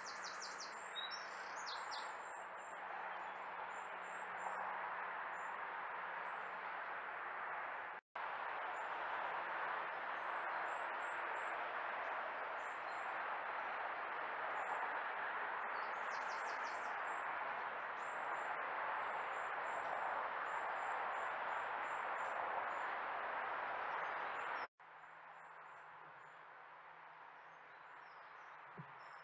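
Small birds chirping in short, high notes over a steady rush of distant road traffic. The sound drops out abruptly twice, and the traffic rush is quieter after the second break.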